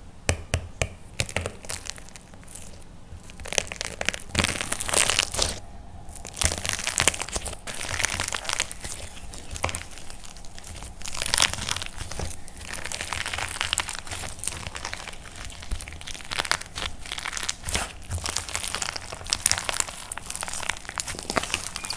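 Dry plaster clay being crushed and cracked: dense crunching and crackling with many sharp cracks, coming in uneven louder bursts.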